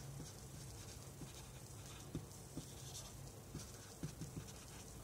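Faint, irregular light ticks and taps of a pen writing, over a low steady hum of room or recording noise.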